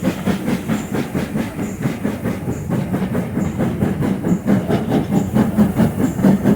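Steam locomotive working a train, its exhaust beating in a fast, even rhythm, heard from an open carriage window along with the clatter of the carriage wheels on the rails.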